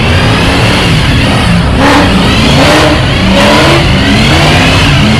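Muscle car engine revving loudly, its pitch climbing and dropping again and again as the throttle is blipped.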